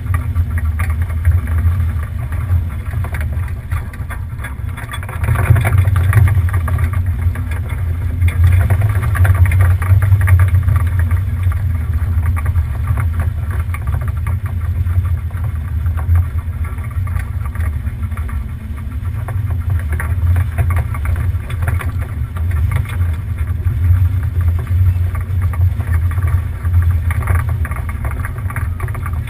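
Sailboat under way: a steady low rumble with a rushing noise over it that swells and eases.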